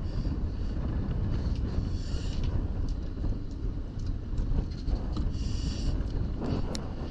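Wind buffeting the microphone on a boat at sea: a steady, gusty low rumble, with brief higher-pitched sounds a couple of times.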